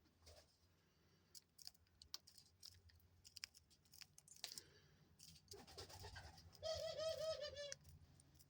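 Faint scattered clicks of a dove pecking seeds off a foxtail millet spray, then about six and a half seconds in a dove gives one short, rolling coo lasting about a second.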